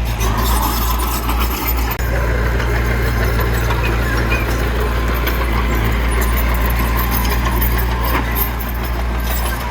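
Heavy diesel engine of earthmoving machinery, a bulldozer or dump truck, running steadily with a deep low drone.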